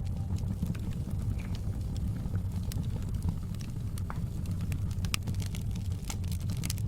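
Wood fire crackling in a fireplace: a steady low rumble of the flames with scattered sharp pops and snaps, more frequent near the end.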